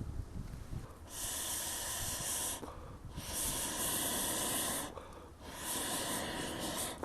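A person blowing air in three long hissing breaths, each about a second and a half, with short pauses between.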